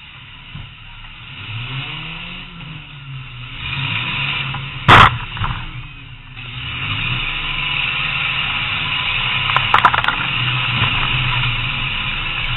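Demolition derby car's engine revving up and down, heard from inside the cabin, with a loud crash about five seconds in and a short run of knocks near ten seconds.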